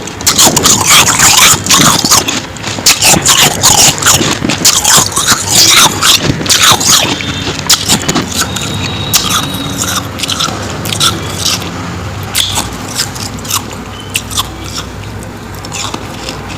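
Close-miked biting and chewing of powdery ice: a rapid series of crisp crunches, densest in the first half and thinning out later.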